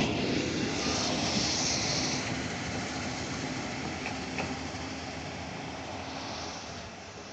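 Nishikigawa Railway 'Komorebi' diesel railcar pulling away on departure, its running noise fading steadily as it draws off, with a few faint clicks from the wheels about four seconds in.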